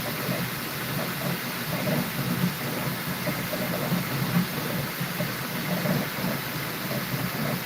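Bambu Lab P1S 3D printer running mid-print: a steady whir with a shifting low hum and brief higher tones that come and go.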